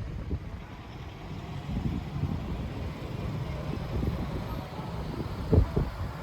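Wind buffeting the microphone: a low, uneven rumble that surges in gusts, with a stronger gust about five and a half seconds in.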